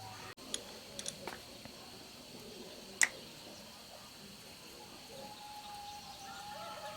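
A few sharp clicks and taps, the loudest about three seconds in, over a steady high-pitched hum. Bird calls come in during the last couple of seconds.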